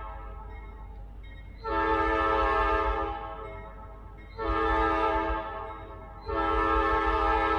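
Freight locomotive's multi-chime air horn sounding a series of blasts. A blast tails off at the start, two shorter blasts follow, one about two seconds in and one just past halfway, and a long blast starts near the end, over a steady low rumble.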